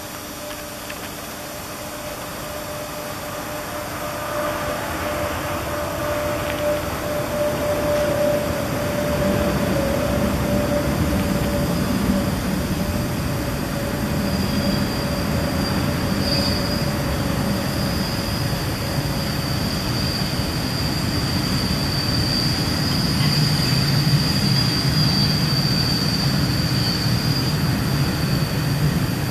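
Freight train rolling past close by, its wagons rumbling over the rails and growing louder as it draws level. A steady wheel squeal rings throughout: a lower tone over the first two-thirds, then a high-pitched squeal in the second half.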